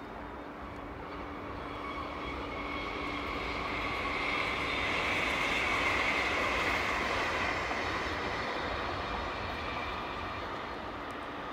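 Electric commuter train passing, a steady whine over a rumble that swells to its loudest about halfway through and then fades.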